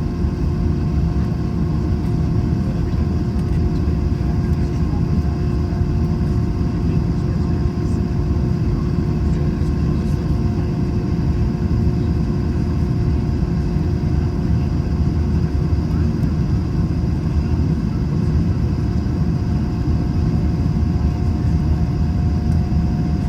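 Steady low rumble with a constant hum inside the cabin of an Airbus A321, from the jet's engines and air systems running.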